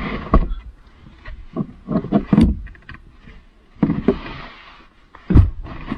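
Irregular knocks and thumps mixed with rustling, the loudest about two and a half seconds in and again near the end.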